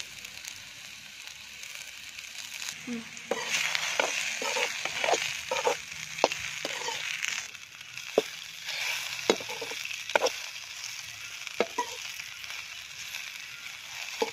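Okra sizzling as it fries in oil in a metal kadai. From about three seconds in, a slotted metal spatula stirs it, clinking and scraping against the pan in irregular sharp strokes.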